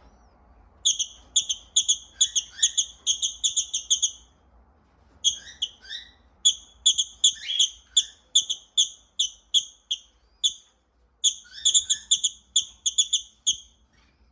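Pet lovebird giving rapid runs of short, high, shrill chirps, several a second, in three bouts separated by brief pauses.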